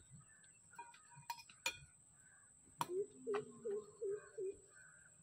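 A few sharp clicks and taps, then, about three seconds in, a bird calling a quick run of about five short, low notes.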